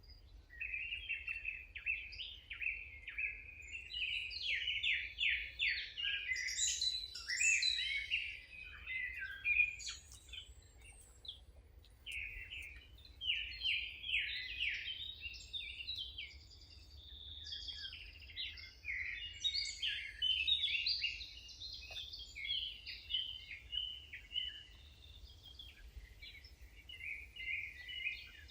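Small songbirds chirping and twittering in quick, dense runs of high notes, with a couple of short lulls, over a faint steady low rumble.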